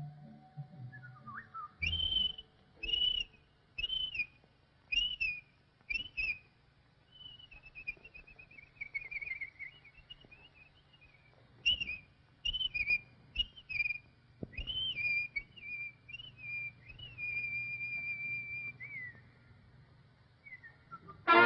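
Whistled cartoon bird calls: a run of short chirps about a second apart, a falling warble, more quick chirps, then a long held whistle that drops in pitch at the end.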